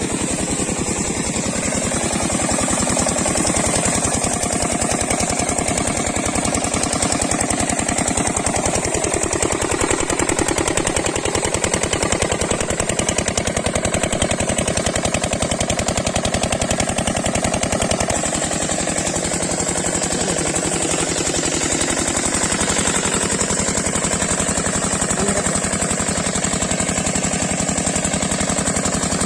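8 hp diesel engine driving a water pumpset, running steadily with a fast, even thudding beat.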